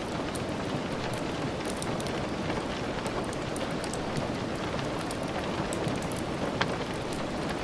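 Steady rain, a dense even hiss, with scattered light crackles of a wood fire and one sharper snap near the end.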